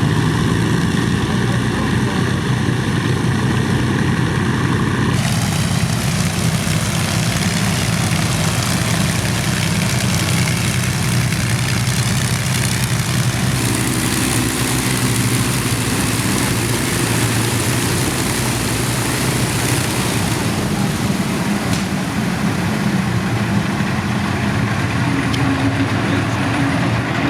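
Avro Lancaster bomber's four Rolls-Royce Merlin V12 engines running at low power as it taxis back. The sound is loud and steady throughout, with an abrupt change in tone about five seconds in.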